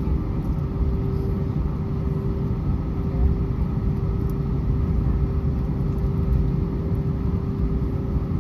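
Steady low rumble inside an Airbus A320 cabin on the ground before takeoff, with a constant mid-pitched hum over it.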